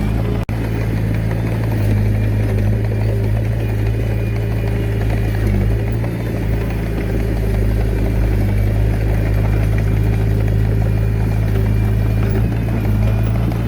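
Komatsu D21A bulldozer's diesel engine running steadily, with a brief dropout about half a second in.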